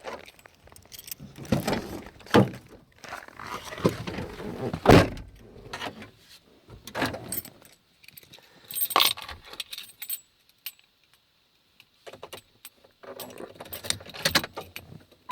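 A set of keys jangling among irregular knocks and rustles as the keys are handled, with a short quiet spell about two-thirds of the way through; no engine running yet.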